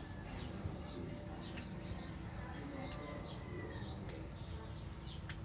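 Small bird chirping over and over, short high chirps about twice a second, with a few faint sharp clicks and a low steady hum underneath.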